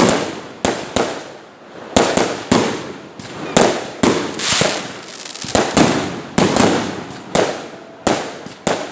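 Fireworks going off in quick succession, loud sharp bangs about two a second, irregularly spaced, each trailing off.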